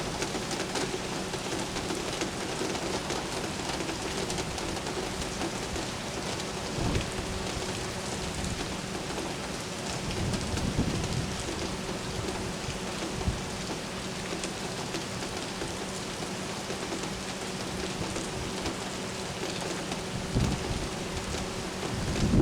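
Steady rain falling on hard surfaces, with low rolls of thunder about halfway through and again near the end.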